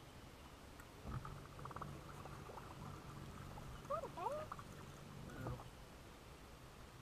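Mostly quiet, with a faint low hum from about one second in to about five and a half seconds. A short run of rapid clicks comes a little after one second, and a brief bird call slides down and back up about four seconds in.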